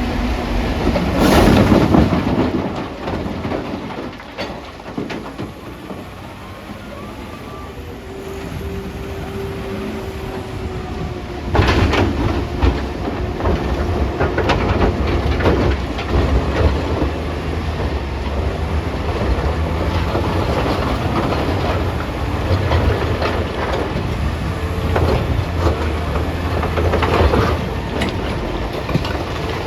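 Caterpillar 966D wheel loader's diesel engine running under load, with clanking and knocks of rock and metal. There is a loud burst about two seconds in, then a quieter stretch, and the engine revs up sharply about halfway through and stays hard at work.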